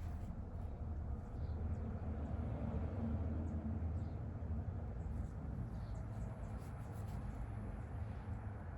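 Steady low hum of room noise, with faint, scattered soft ticks and scratches of a paintbrush working on a painting surface.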